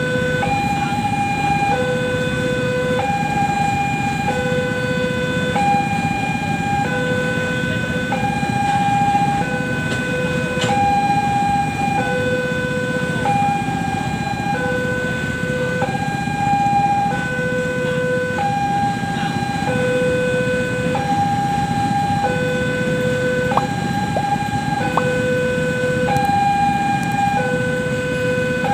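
Railway level-crossing warning alarm sounding a steady electronic two-tone signal, a lower and a higher tone alternating about once a second, over a continuous low rumble.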